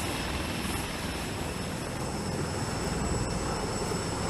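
V-22 Osprey tiltrotor running: a steady drone of its rotors, beating fast at the low end, with a thin, steady, high turbine whine over it.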